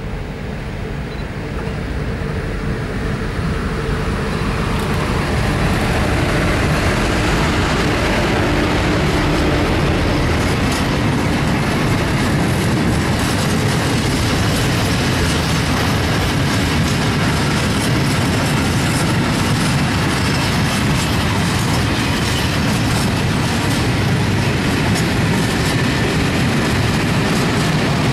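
Freight train of open gondola wagons approaching and passing close by. A rumble grows louder over the first few seconds, then holds steady as the wagons roll past, with repeated clacks of the wheels over the rail joints.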